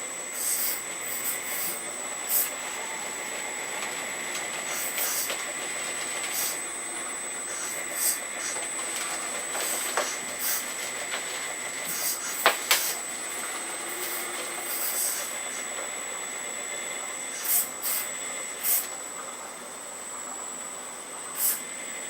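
Hydraulic pump of an RC Earth Digger 4200XL excavator running with a steady high whine, with frequent short hissing bursts as the valves open to work the arm and bucket moving soil. Two sharp clicks come in the middle.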